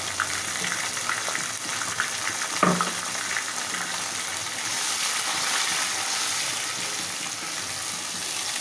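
Ground onion paste sizzling as it goes into hot oil with browned sliced onions, then frying while a spatula stirs it. Scattered crackles in the first few seconds and a single knock near three seconds in.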